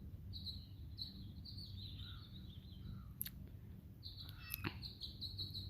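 House finches chirping: runs of short, high chirps in the first couple of seconds and again from about four seconds in, with two sharp clicks in between.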